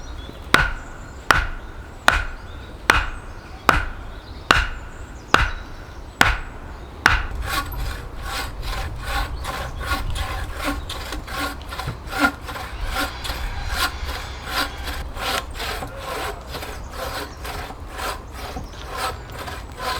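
A hand saw cutting through a log in regular back-and-forth strokes. The strokes run slowly, about one a second, for the first seven seconds, then speed up to two or three a second.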